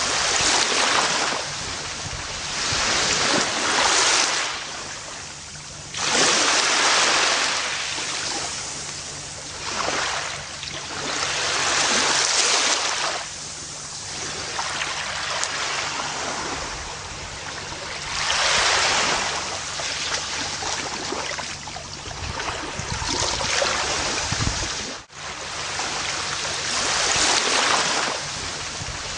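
Gentle ocean waves washing onto a beach: a continuous hiss of surf that swells and fades every few seconds.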